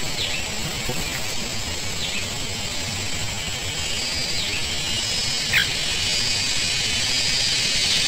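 Outdoor ambience with a steady high hiss and a few short bird chirps, the clearest about five and a half seconds in.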